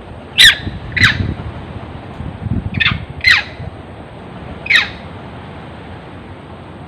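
A monkey giving five short shrill screams, each falling sharply in pitch, in two quick pairs and then a single one.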